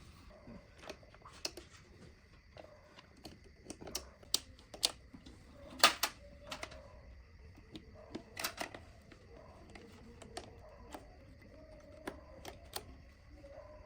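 Irregular light clicks and taps of small parts and tools being handled, with the sharpest click about six seconds in and a quick cluster about two and a half seconds later.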